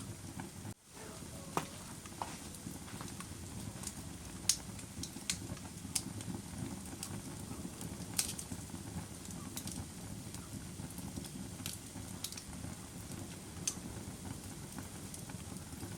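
Fire crackling: a steady low rush of flames with scattered sharp pops and snaps. The sound drops out very briefly about a second in.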